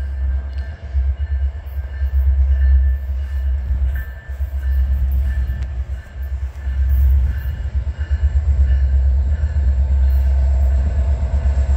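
Canadian National freight train approaching, its diesel locomotive giving a heavy, uneven low rumble that grows louder over the last few seconds.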